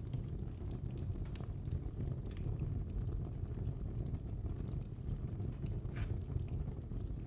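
Wood fire in a fireplace burning with a steady low rush of flames and scattered sharp crackles and pops, one louder pop about six seconds in.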